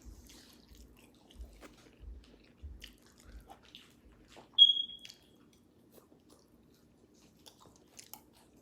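Close-miked mouth chewing food, mukbang-style, with a soft chewing rhythm for the first few seconds. About halfway through comes a short, high-pitched squeak, the loudest sound. It is followed by faint small clicks.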